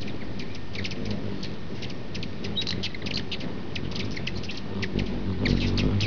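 Many short, high bird chirps, several a second, over a low rumble that swells near the end.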